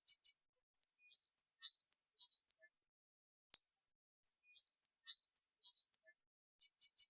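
Kemade songbird calling: loud, high, sharp 'cit' chirps that sweep upward, in quick runs of four to six with a short pause in the middle. A few short clipped ticks come at the start and again near the end.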